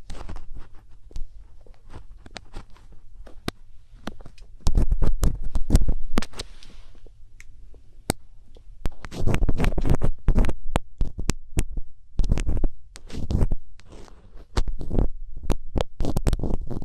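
Thin ear picks scraping and tapping in an ear-shaped binaural microphone, close up. The sound is a run of irregular sharp clicks and scratches, broken by several louder stretches of low, booming rubbing.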